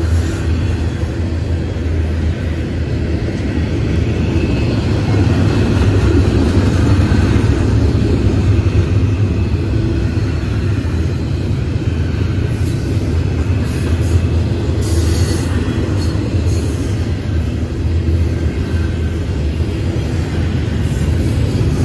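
Double-stack intermodal train of container-laden well cars rolling past close by: a steady rumble and clatter of steel wheels on the rails.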